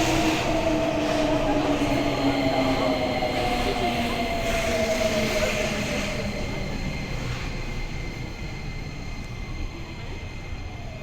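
Nagoya City Subway N3000 electric train braking into a station: the traction motor whine falls steadily in pitch and fades as the train slows, over rumbling running noise that also dies away.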